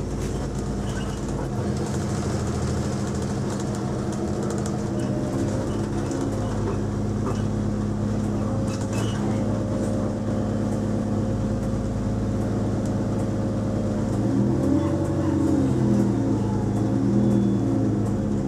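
Bus engine heard from inside the passenger cabin, running with a steady drone; near the end its pitch shifts up and it gets louder as the bus picks up speed.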